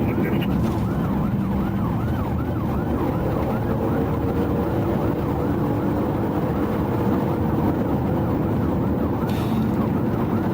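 Police car siren on a fast yelp, sweeping up and down about three times a second, over heavy engine and road rumble from a car at pursuit speed.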